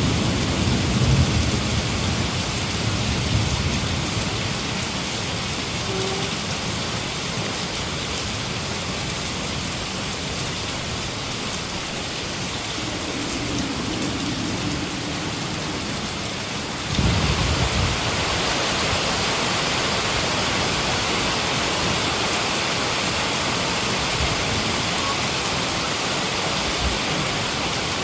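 Heavy rain pouring steadily, with thunder rumbling low at the start and dying away. About two-thirds of the way through the rain abruptly grows louder, with a short low rumble.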